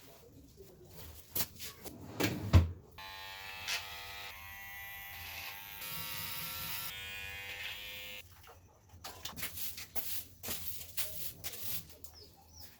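Electric hair clippers buzzing steadily for about five seconds, shifting pitch partway through. Sharp clicks and taps come before and after, the loudest a single knock just before the buzz starts.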